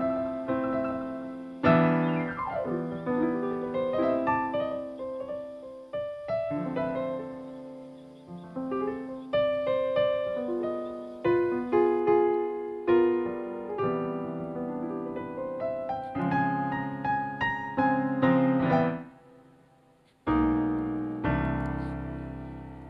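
Background piano music: a gentle melody of single notes and chords, each note dying away. Near the end it pauses briefly, then a last chord is struck and left to fade.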